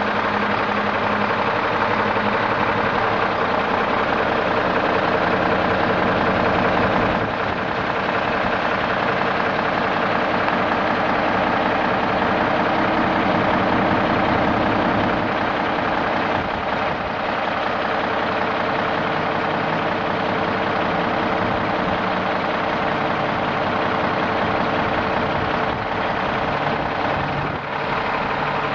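1995 Peterbilt roll-off truck's diesel engine idling steadily.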